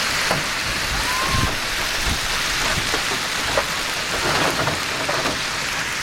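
Heavy rain pelting a car in a thunderstorm, a steady hiss with scattered sharp knocks of hailstones striking the body and glass.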